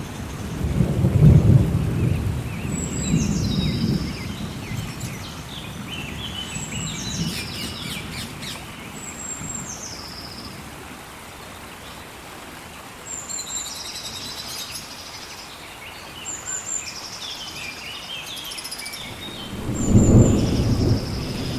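Thunderstorm in a rainforest: steady rain hiss with deep rolls of thunder about a second in and again near the end. Over the rain a bird repeats a high call that steps down in pitch, every couple of seconds.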